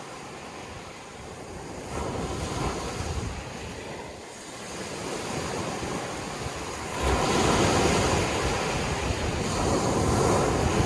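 Sea waves washing in and breaking, a rushing surge that builds about two seconds in, eases, then swells to its loudest about two-thirds of the way through.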